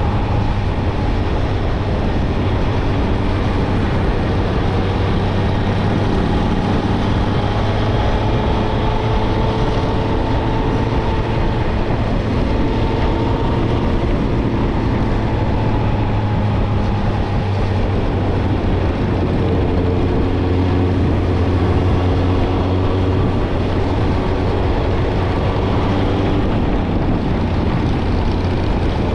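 Suzuki GSX-R1000 inline-four engine through a Yoshimura Alpha exhaust, running steadily while the bike is ridden gently at cruising revs. The engine note rises and falls only slightly.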